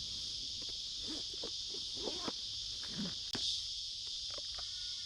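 Steady, high-pitched chorus of insects, with scattered faint clicks and taps over it.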